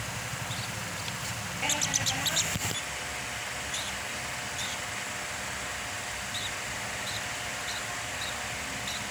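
Hand-fed young bird giving short high cheeps: a quick run of them about two seconds in, then single cheeps spaced a second or so apart, over a steady background hiss.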